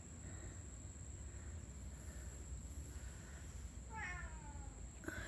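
Barn cat meowing once about four seconds in, a short call that falls in pitch.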